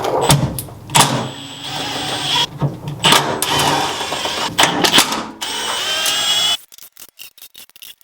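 A power tool runs in uneven surges with sharp knocks, then cuts off suddenly about six and a half seconds in; a few light clicks follow.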